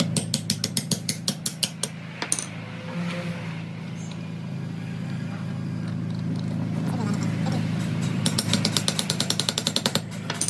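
Metal being struck in two quick runs of repeated blows, several a second, at the start and again near the end, over a steady low workshop hum.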